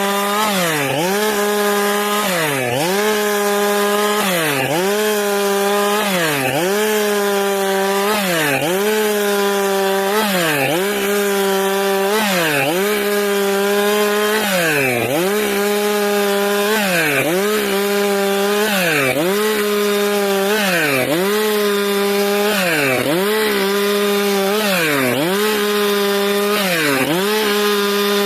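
Stihl MS462 two-stroke chainsaw running at high revs while sawing eucalyptus into boards. Its pitch dips and recovers about every two seconds.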